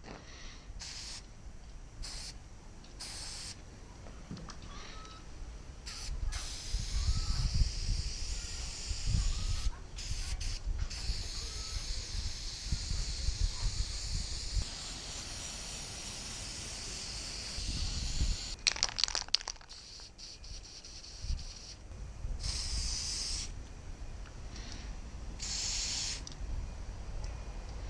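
Aerosol spray paint can hissing in short bursts and in one long spray of about twelve seconds. A quick run of clicks comes about two-thirds of the way in. Wind rumbles on the microphone.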